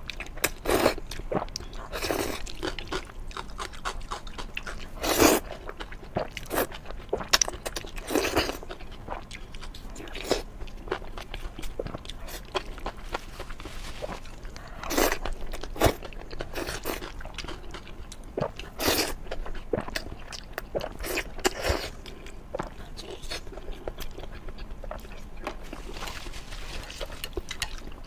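Close-miked eating: irregular crunchy bites and chewing, with sharp crackling clicks every second or so.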